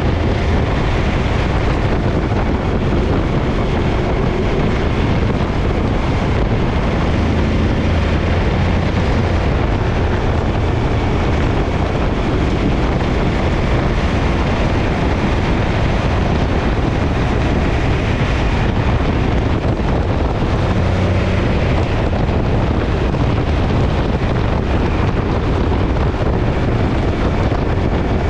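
Suzuki DL1000 V-Strom's V-twin engine running steadily with a rear-cylinder misfire, as the owner diagnoses it.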